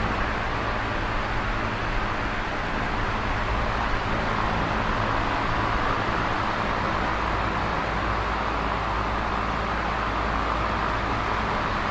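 Electric fan running steadily: an even whoosh of moving air with a faint low motor hum beneath it.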